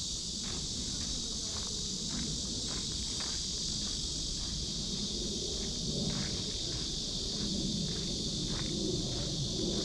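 Cicada chorus, a steady high buzz, with a walker's footsteps on the path, about two to three steps a second.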